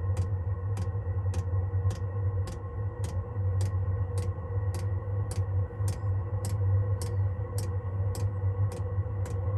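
Chinese diesel heater's fuel dosing pump clicking steadily, a little under twice a second, over the steady low drone of the heater running.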